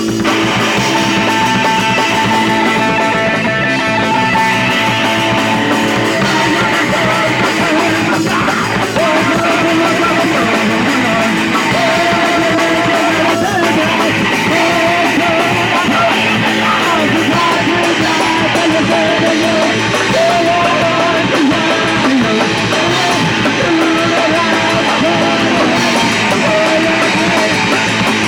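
Live punk rock band playing loudly: distorted electric guitar over drums.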